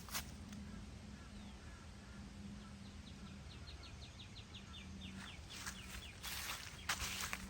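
A small bird sings a fast trill of about twenty short, down-slurred high notes, lasting a little over two seconds and starting about three seconds in. Footsteps on the trail pick up again near the end.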